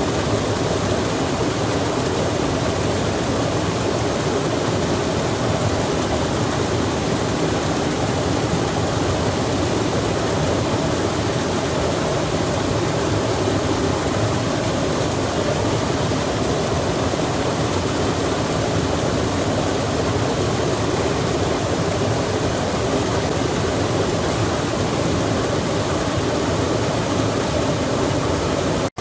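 Steady rushing of flowing water, as from a mountain stream or small waterfall, an even wash with no separate splashes or changes.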